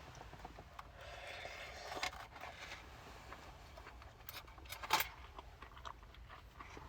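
Faint rustling and light clinks of a freeze-dried meal pouch being handled and eaten from, with one sharper click about five seconds in.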